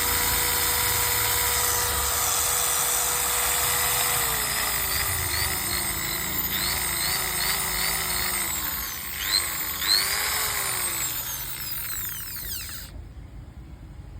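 MAKTEX 230 W electric drill running with a steady whine, then its speed wavers down and up. There are two short louder surges about nine and ten seconds in before it winds down and fades.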